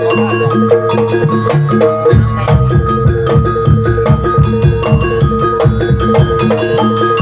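Gamelan music: struck metal mallet instruments play fast repeated interlocking notes. A drum joins in about two seconds in.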